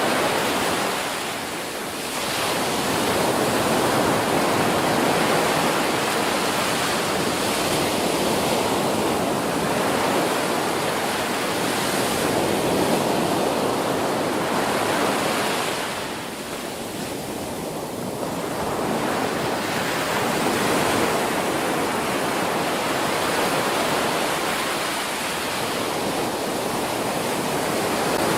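Ocean surf washing onto a beach: a continuous rushing of breaking waves that swells and ebbs, easing off briefly about two seconds in and again around sixteen to eighteen seconds.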